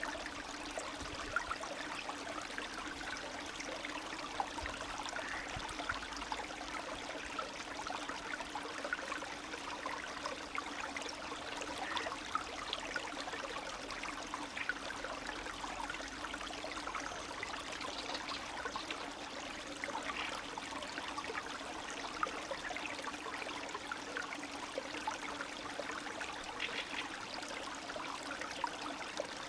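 Spring stream running steadily, trickling and gurgling, with many small quick splashes and bubbles.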